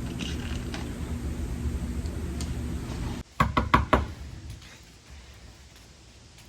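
A quick run of about five knocks on a door, a little over halfway through, after a steady low hum that cuts off suddenly.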